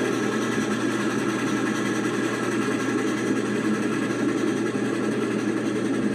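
Canadian National locomotive 3254 running steadily with an even engine hum that does not rise or fall.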